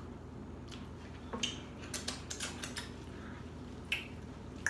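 Eating sounds: scattered soft clicks and taps from chewing and handling food, over a low steady room hum.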